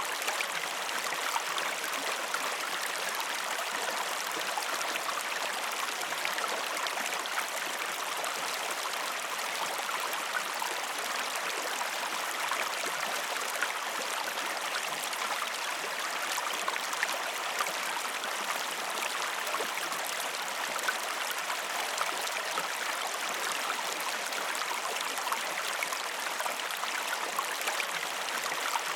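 Waterfall: water falling and splashing in a steady, unbroken rush, with a fine spattering on top.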